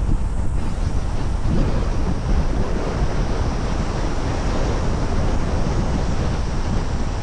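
Steady wind and road noise from a car driving at a constant speed, a low, even rumble without breaks.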